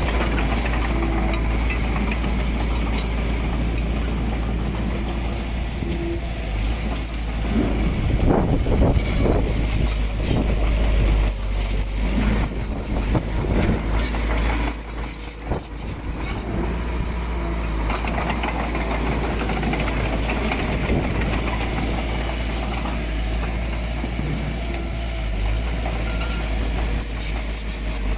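Diesel earthmoving machinery running steadily under load, with a low engine rumble. About a quarter of the way in there is a stretch of irregular clicks and rattles lasting several seconds, such as steel tracks or a blade working soil.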